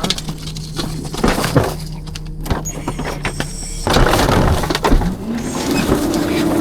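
Rear-loader garbage truck at work: a string of knocks, crashes and breaking glass as rubbish tips into the hopper over a steady engine hum. About four seconds in, a louder rush of noise starts, and the engine's hum rises in pitch and holds there, as the truck's hydraulics run the packer.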